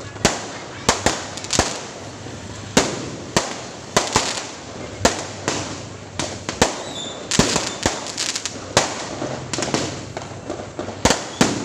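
Fireworks going off in a rapid, irregular string of sharp bangs, about two a second, each followed by a short echoing tail.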